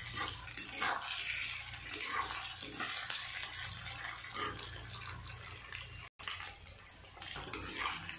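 Potato, onion and chillies sizzling in hot oil in an aluminium kadhai, with a spatula repeatedly scraping and stirring them against the pan. The sound cuts out for an instant about six seconds in.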